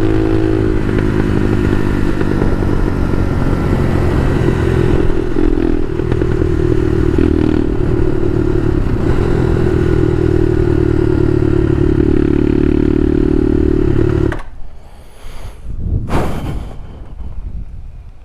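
Bashan Motomax 250 supermoto engine running as the bike is ridden, its revs rising and falling. About fourteen seconds in the engine sound drops away abruptly, followed by a brief noise a couple of seconds later.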